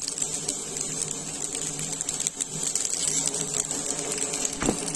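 Smashed boiled baby potatoes, cumin seeds and a green chilli sizzling and crackling in hot ghee in a pan over a low flame, with a steady low hum underneath.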